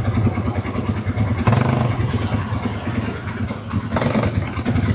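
Quad bike engine running while riding, a steady low hum that picks up briefly about one and a half seconds in and again near four seconds.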